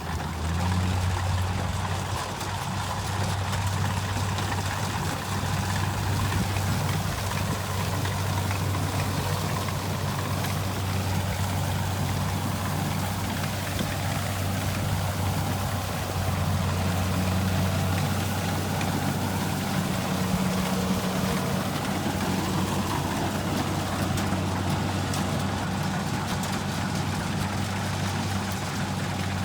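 Diesel engine of a Kubota rice combine harvester running steadily at constant speed with a low, even hum.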